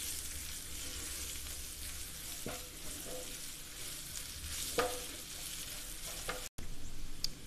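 Sliced onions, tomato and spice powders sizzling in hot oil in a non-stick kadai as they are stirred with a wooden spatula, a steady hiss with a couple of light knocks of the spatula against the pan.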